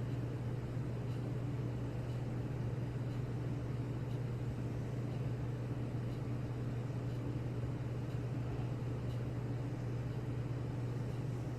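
A steady low hum over a constant background hiss, unchanging throughout.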